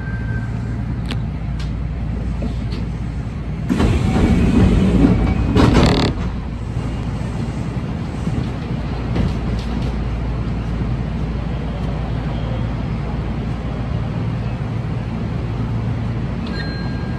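Electric commuter train running, heard from inside the carriage: a steady low motor and rail hum, with a louder rushing noise for about two seconds a few seconds in.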